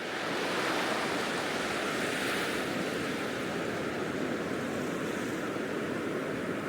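Sea waves washing on the Cornish shore: a steady, even rush of surf.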